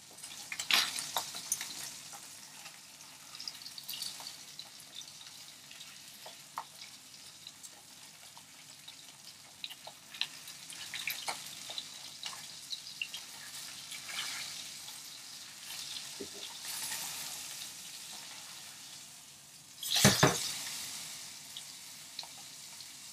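Salmon fillet frying in oil in a frying pan: a steady sizzle with scattered small pops and crackles, and the light scrape and tap of a spatula against the pan. About twenty seconds in, the fillet is flipped and lands with a loud thump, followed by a louder burst of sizzling that settles back down.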